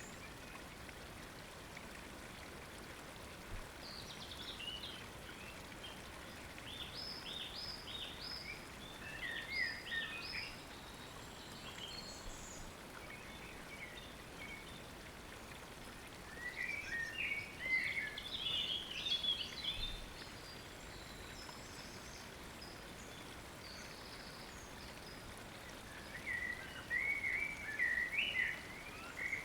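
Birds chirping in three bouts of short, high notes over a steady hiss of water.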